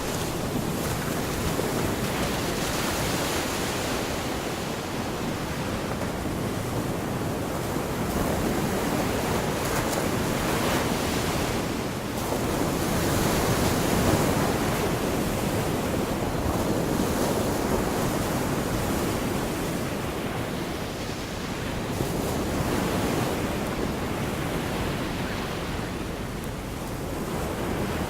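Gulf of Mexico surf: small waves washing onto the beach in a continuous hiss that swells and eases every few seconds.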